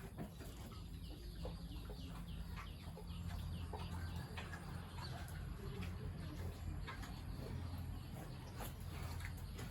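Chickens clucking, with a quick run of short high chirps in the first few seconds, over a steady low hum.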